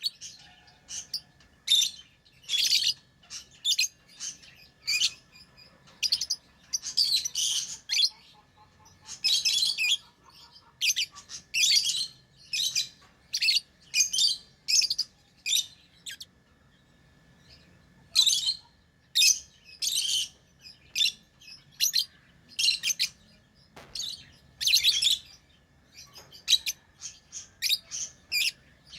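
Pet lovebirds chirping: a stream of short, high, shrill chirps with short gaps between them, broken by a few longer bouts of rapid chattering.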